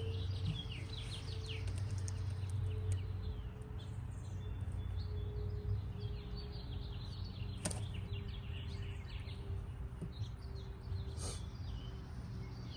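Small birds chirping and twittering in bursts over a steady low hum, with two sharp clicks about eight and eleven seconds in.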